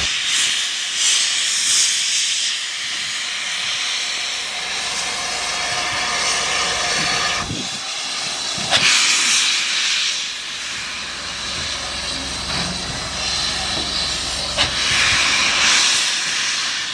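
A steam locomotive letting off steam, a steady loud hiss that swells three times: about a second in, about nine seconds in, and near the end.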